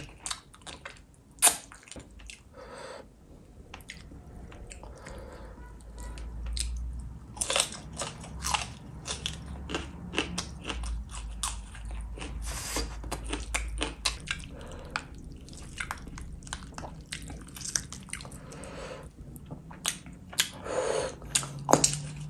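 Close-miked chewing and mouth sounds of a person eating fish and rice by hand, with many short sharp clicks and smacks.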